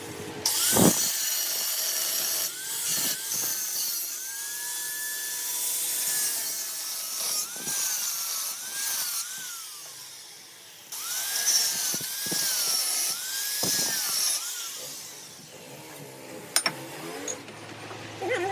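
Power tool working metal in stretches of a few seconds, a loud hiss over a motor whine that dips and recovers in pitch as it is loaded.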